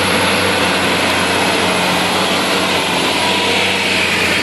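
John Deere tractor engine running at a steady speed, a constant engine drone with a broad hiss of mechanical noise over it.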